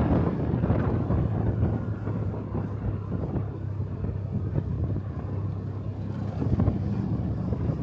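Motorcycle engine running steadily while riding, with wind noise buffeting the microphone.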